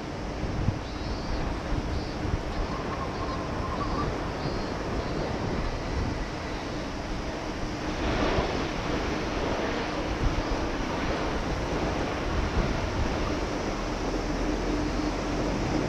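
Strong gusty wind buffeting the microphone over the steady noise of a Boeing 767-300's jet engines, with a louder swell about eight seconds in.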